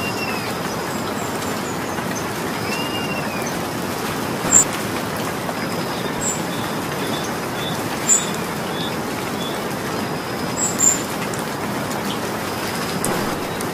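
Steady rain falling, an even hiss throughout, with birds chirping: two arching chirps in the first few seconds and a quick run of short high notes in the middle. Three sharp high ticks stand out, about a third, two thirds and four fifths of the way through.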